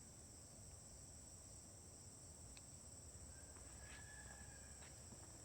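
Faint, steady, high-pitched chorus of insects such as crickets in the woods, with a brief faint chirp about two-thirds of the way through.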